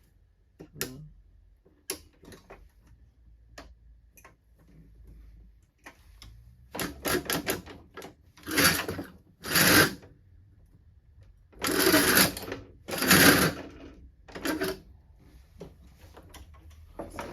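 Workshop tool noise: scattered clicks and knocks, then about six short rasping bursts, each under a second, in the second half.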